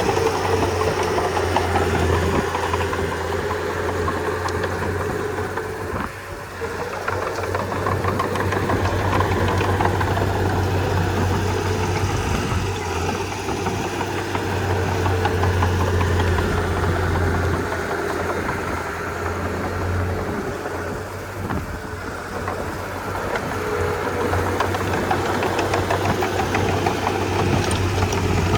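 Komatsu D31P crawler bulldozer's diesel engine running steadily as the machine works. Its level dips briefly about six seconds in and again a little past twenty seconds, then comes back up.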